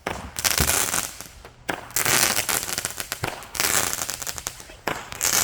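Consumer firework repeater cake firing: several sharp bangs, each followed by dense crackling, with the strongest shots about two and three and a half seconds in.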